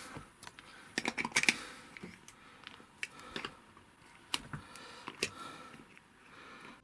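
Scattered light clicks and knocks of small metal wheelchair wheel parts and hand tools being handled, with a quick cluster of them about a second in.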